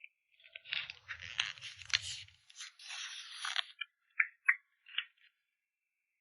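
Plastic packing material crinkling and rustling as it is handled for about three seconds, followed by three short, sharp clicks.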